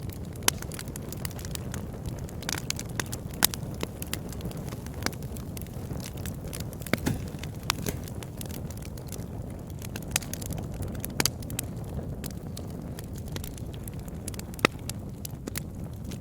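Wood fire burning in a fireplace: irregular sharp crackles and pops over a steady low rumble of the flames, with a few louder pops standing out, the strongest about half a second in, about three and a half seconds in and near the end.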